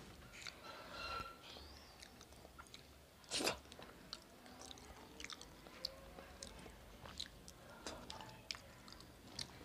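Close-up mouth sounds of a person eating rice with fried fish by hand: chewing with many small wet clicks and smacks, and one louder sharp bite or smack about three and a half seconds in.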